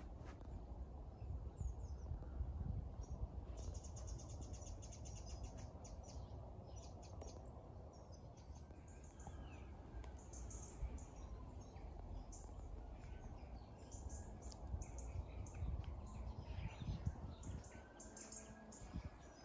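Small birds chirping and calling in quick short notes, with a rapid rattling run of notes a few seconds in. Beneath them runs a steady low rumble.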